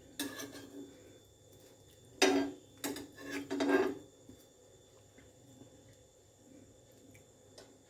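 Metal spatula scraping and clattering against a dosa griddle a few times, about half a second in and then around two to four seconds in, as bread slices are turned while they toast.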